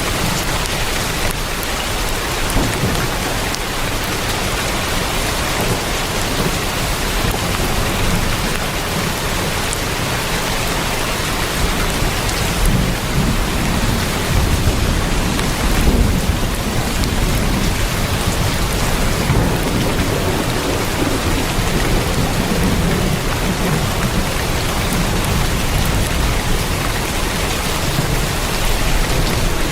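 Heavy rain falling on a tin roof as a steady, even hiss, with low rumbles of thunder swelling twice in the middle.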